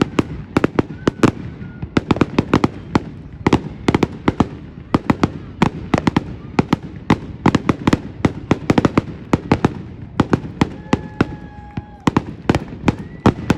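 Fireworks going off in a dense, irregular run of sharp cracks and pops, several a second. A short steady high tone sounds briefly about two-thirds of the way through.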